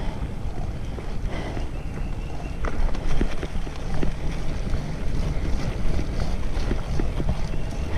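Wind rumbling on the microphone while riding, with scattered small clicks and rattles.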